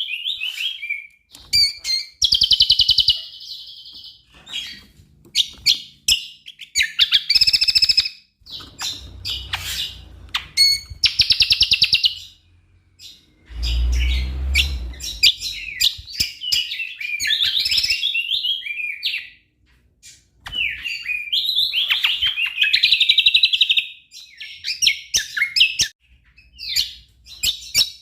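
Cucak kombo songbird in full song: repeated bursts of rapid, varied high warbling and chatter, each lasting one to two seconds with short pauses between. A low thump is heard about halfway through.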